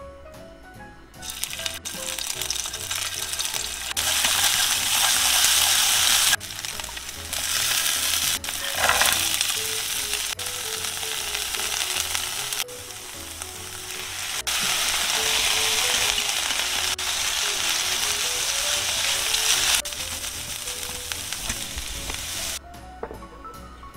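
Stir-fry sizzling in hot oil in a pan, a dense steady sizzle. The level jumps or drops suddenly every few seconds, as from edited cuts between clips, and the sizzle stops abruptly near the end.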